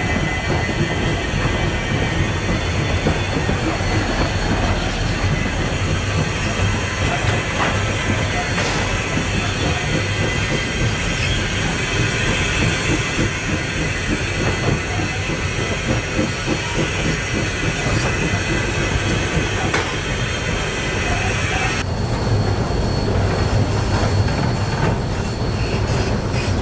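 Continuous rumble and clatter of a moving narrow-gauge steam locomotive, Rio Grande Southern #20, heard from inside its cab, with its wheels and running gear on the rails and the engine working lightly. The high end of the sound drops away abruptly near the end.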